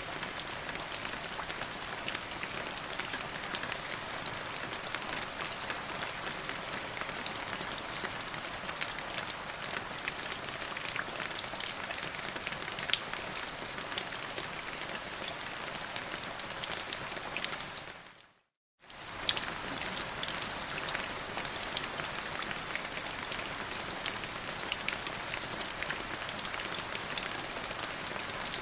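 Steady rain falling, a dense patter of individual drops over an even hiss. About two-thirds of the way through, it fades out to a moment of silence and then comes back abruptly, like the splice of a looped recording.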